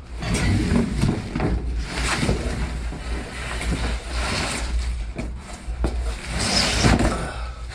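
Exhaust parts and their packing being handled: paper and cardboard rustling, with scattered knocks of the metal pieces, over a steady low rumble.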